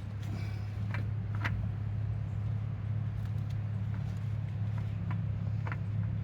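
A steady low machine hum, with a few light clicks: one about a second in, another half a second later, and one near the end.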